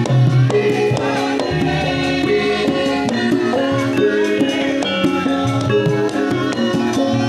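Javanese gamelan music accompanying a topeng mask dance, with struck notes ringing at steady pitches, one after another.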